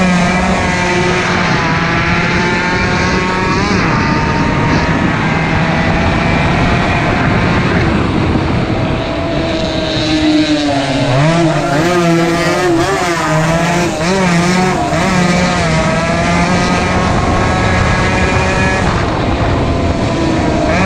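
Two-stroke racing motorcycle engines revving hard, their pitch climbing and dropping over and over through the gears. Around the middle several engines overlap with wavering notes.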